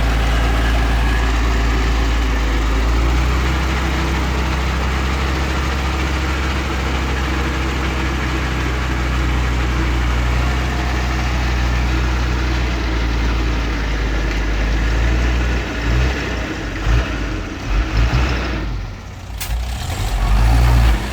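Heavy diesel engine of earthmoving machinery running with a steady low hum. About three-quarters of the way through the sound turns uneven, drops away briefly and then rises again.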